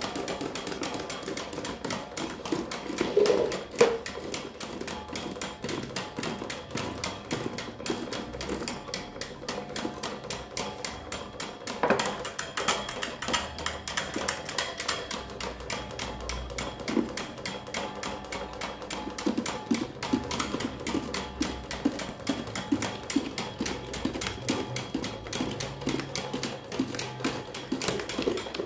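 Electric fan running fast with a rapid, continuous rattling clatter, with louder knocks about three to four seconds in and again about twelve seconds in.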